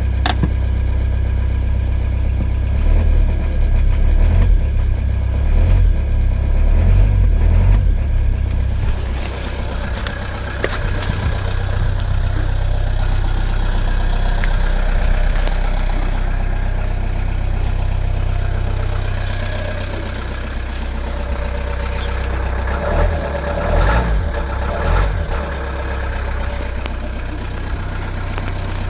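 Toyota Yaris 1.4 D-4D four-cylinder diesel idling cold at −16 °C shortly after a cold start, a steady low run that swells a little twice. There is one sharp click just after the start.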